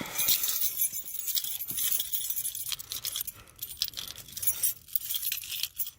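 A bunch of keys jangling and clinking in the hand, in irregular little jingles.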